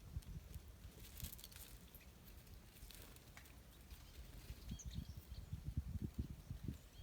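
Faint outdoor ambience with a few brief, high songbird chirps about five seconds in, over uneven low rumbling bumps that grow in the second half.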